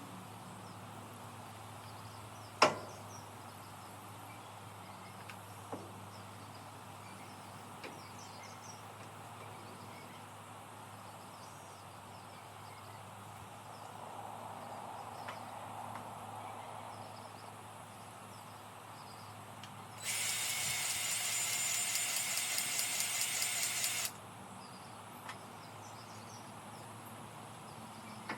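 Grease gun working the fittings on a John Deere 468 round baler: a sharp click about three seconds in, then a loud, rapidly pulsing run of about four seconds near the end, over a steady low hum.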